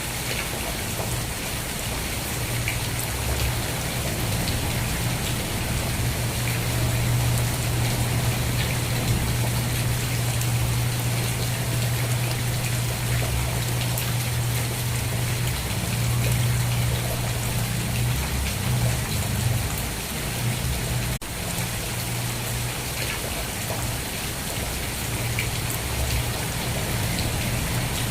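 Steady rain falling, with scattered individual drop ticks over an even hiss and a steady low rumble underneath. The sound dips for an instant about three-quarters of the way through.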